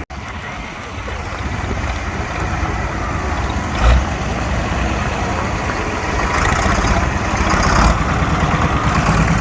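A pulling tractor's engine idling steadily, growing slightly louder, with a brief low thump about four seconds in.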